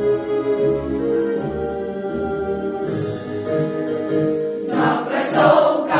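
Instrumental backing music with steady held chords and a faint regular beat, then a school choir comes in singing in Russian about three-quarters of the way through.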